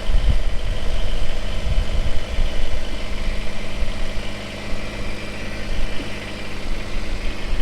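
Kubota BX23s compact tractor's three-cylinder diesel engine running steadily, working the backhoe as it digs out a stump.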